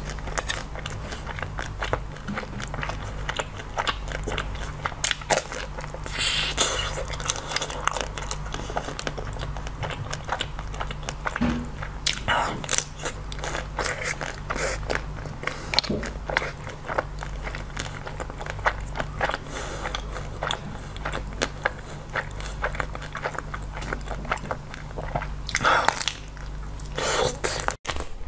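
Close-up chewing and biting of frozen chocolate-coated treats: irregular crunching and crackling of the hard chocolate shell, with wet mouth sounds.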